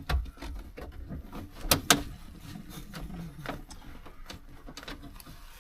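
Scattered clicks and knocks of hands working a pickup truck's headliner and interior trim loose, with two sharp knocks a little under two seconds in.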